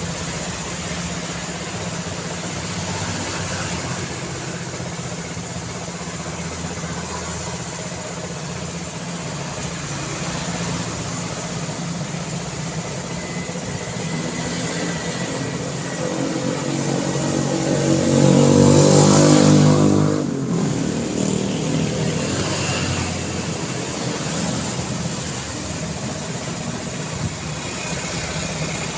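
Road traffic running steadily. About two-thirds of the way in, one vehicle passes close and grows louder, its engine note rising, then cuts off sharply.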